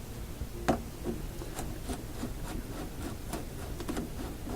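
Handling noise on the radio's glass dial and its clamp: one sharp click a little under a second in, then a string of small, irregular clicks and taps as fingers work at the fitting.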